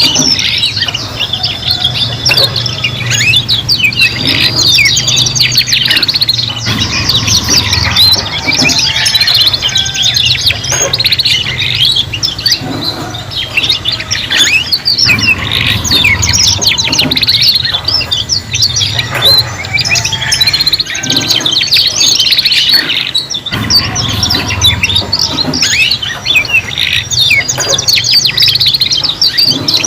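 Three domestic canaries singing together in a dense, unbroken stream of rapid trills and chirps, the young birds practising song. A low hum runs under the song at times.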